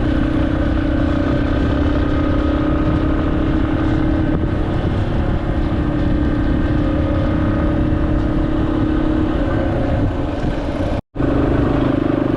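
Yamaha XT250's single-cylinder engine running steadily under way, with wind and road noise. The sound cuts out for an instant near the end.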